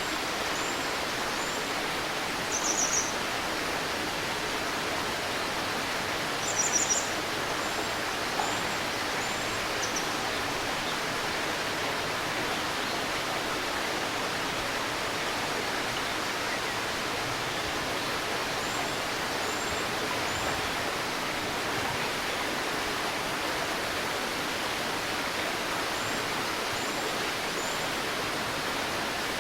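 Steady rushing of a babbling river. Over it, birds call: high thin chirps in short runs of three or four notes, and two louder quick trills about three and seven seconds in.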